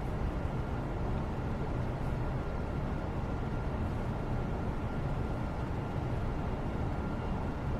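Steady background noise, a continuous low-heavy rumble-like hiss with a faint steady high tone in it.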